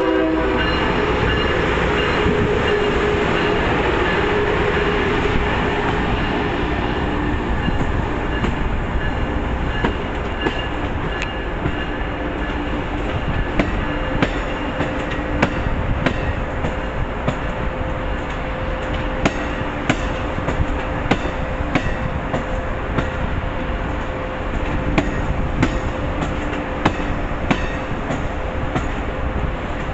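MBTA train running along the track: a steady rumble and hiss with a faint steady hum. Short sharp clicks of wheels over rail joints come in after several seconds and grow more frequent.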